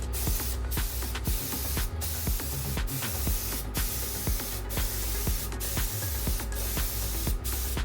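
Spray gun hissing steadily as it sprays coating onto a car's underbody.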